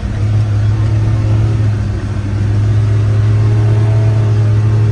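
Vehicle engine running steadily with a low, even hum while driving, a little louder from about halfway through.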